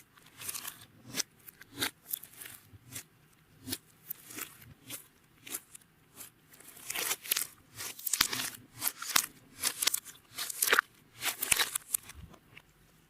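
Clear slime being squished and kneaded by hand, giving a run of sticky crackling pops and clicks that come faster and louder about halfway through and stop about a second before the end.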